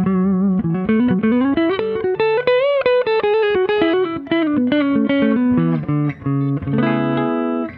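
Semi-hollow electric guitar with humbucker pickups through a Fender Hot Rod Deluxe IV tube combo amp on its clean channel. It plays a single-note lick that climbs to a bent, wavering note about three seconds in, then steps back down and ends on a sustained chord near the end.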